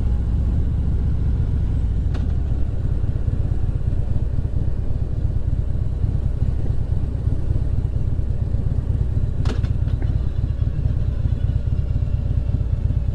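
Motorcycle engine running at a steady cruising speed, mixed with the low rumble of wind on the helmet microphone. Two brief clicks come through, one about two seconds in and one about nine and a half seconds in.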